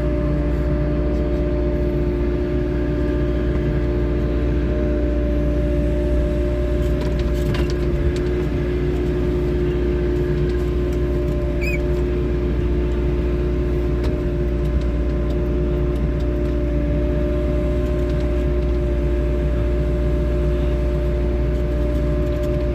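Diesel engine of a 3W-class wheeled excavator running at a steady speed with a constant hum and low rumble, not revving.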